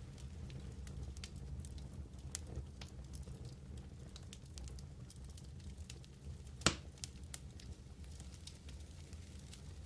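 Wood fire burning in a fireplace: a steady low rumble of flame with scattered small crackles and one louder pop about two-thirds of the way through.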